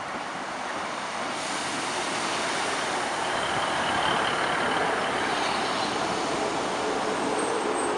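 Class 150 Sprinter diesel multiple unit running into the platform close by: its diesel engine and wheels on the rails, growing louder as it passes, with a faint high squeal about halfway through.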